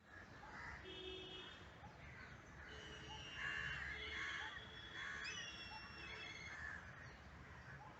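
Birds calling: crows cawing several times, loudest a few seconds in, with other birds' thin whistles and chirps over them.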